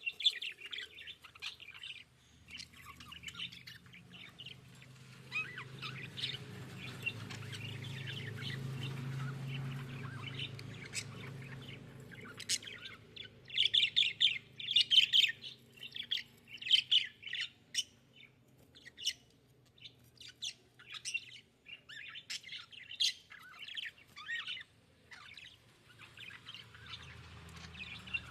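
Budgerigars chirping and chattering in a rapid, continuous stream of short high chirps, busiest about halfway through. A steady low hum runs underneath for the first half or more.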